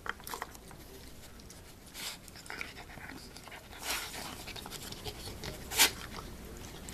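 A dog panting and sniffing at a dog puzzle, with scattered light clicks and a few short huffs, the loudest about six seconds in.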